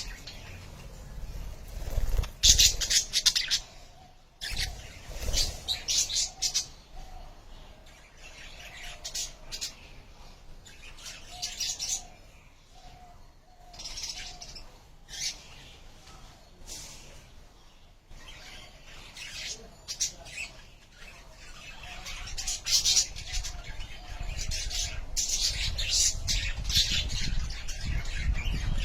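Budgerigars chirping and chattering in clusters of quick, high chirps with short gaps between them, busier near the end. A low rumble rises under them in the last few seconds.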